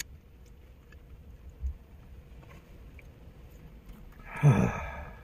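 Quiet chewing of a mouthful of food, with a soft thump a little after a second in and a brief louder pitched sound near the end.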